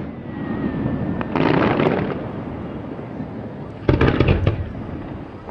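Fireworks bursting: a boom with crackling about a second and a half in, then a quick cluster of several sharp bangs about four seconds in.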